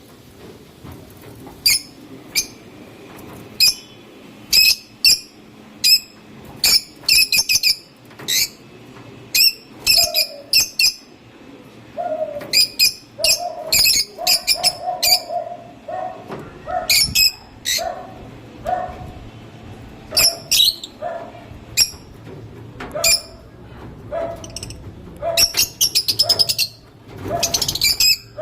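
Lovebirds chirping: short, sharp, high-pitched calls in irregular bursts, some in quick runs of several, many with a lower note beneath them from about ten seconds in.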